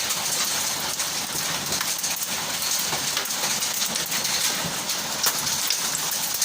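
Heavy downpour of rain: a steady, dense hiss with many sharp drop impacts on a hard surface.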